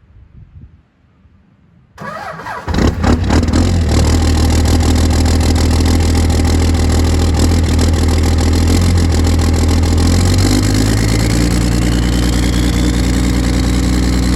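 24-valve Cummins inline-six turbo diesel cold-starting: about two seconds in the starter cranks briefly and the engine catches, then runs loud and steady. About ten seconds in the engine note shifts and a whine rises in pitch.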